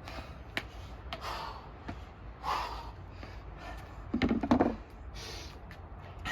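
A man breathing hard from exertion during dumbbell step-ups, with several heavy breaths, the loudest a little past halfway. Light taps and knocks, mostly in the first two seconds.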